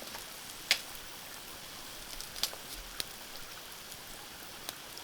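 Campfire with a pot of soup simmering over it: a steady hiss with a few sharp pops, about four of them.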